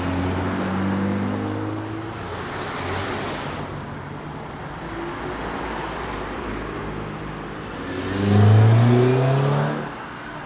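Cars accelerating past: one engine revs up and pulls away at the start, then a second, louder car accelerates hard about eight seconds in, its engine note rising for a couple of seconds before it drops away.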